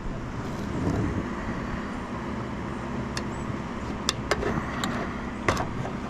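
An engine running steadily with a low hum, with a few short sharp clicks or taps in the middle.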